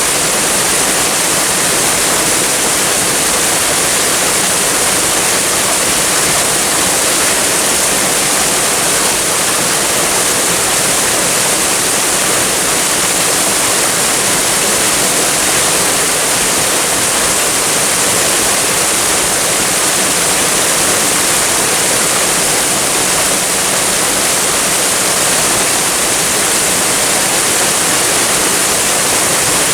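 Waterfall and flowing water making a steady, even rushing with a bright hiss and no change.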